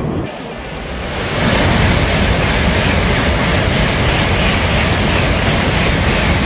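Shinkansen bullet train passing at high speed: a loud, steady rush of air and rail noise that swells about a second in.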